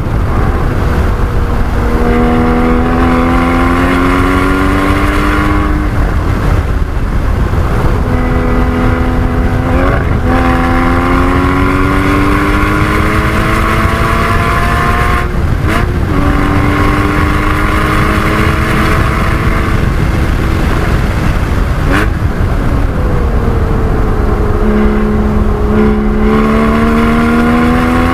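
Porsche 981 Cayman GT4's flat-six engine accelerating hard on track, its pitch climbing through the gears several times with short breaks and dips between the climbs for gear changes and braking, over heavy low road and wind rumble.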